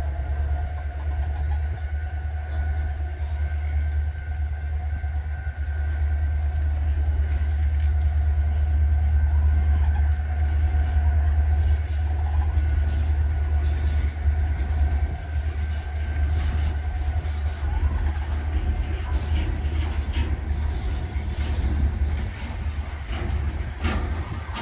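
Loaded freight cars rolling slowly past on the rails, a steady low rumble with a faint steady whine above it and a few clicks and clanks near the end.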